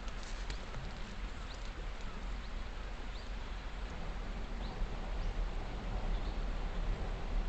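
Wood campfire burning, with a few sharp crackles near the start over a steady rushing background, and faint short high squeaks rising in pitch about once a second.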